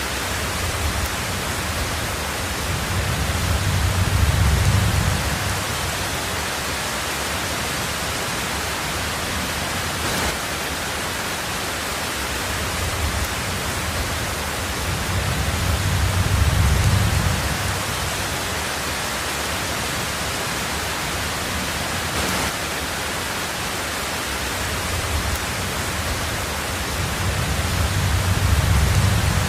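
Heavy rain drumming steadily on a tin roof, an even hiss, with low rumbles of thunder swelling and fading three times, about every twelve seconds.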